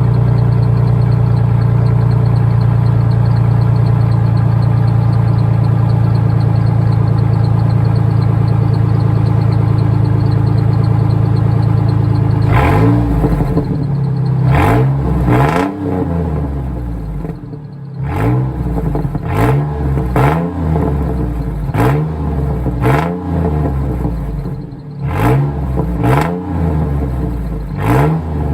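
2001 Ford F-150's 4.2-litre V6, straight-piped with the muffler cut off, idling loud and steady, then from about halfway revved in quick blips, roughly one a second, each rising and falling back.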